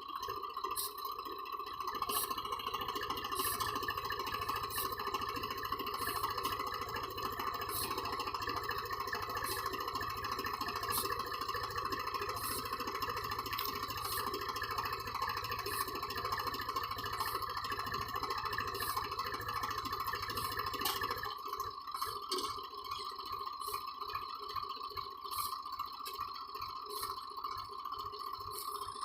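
Swaraj tractor's diesel engine running steadily. Its deep low rumble drops away nearly three quarters of the way through.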